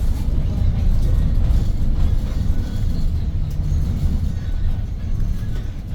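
Hyundai New Super Aerocity city bus driving, its C6AF CNG engine and the road heard from inside the cabin: a steady low engine and road noise.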